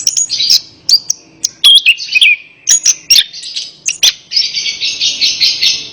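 Orange-headed thrush singing: a quick run of varied whistled notes, pitch glides and sharp calls, then, about four seconds in, a long fast chattering trill.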